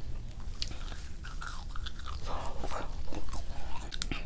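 Close-miked eating of McDonald's food: chewing and crunching, with a few sharp crunchy clicks.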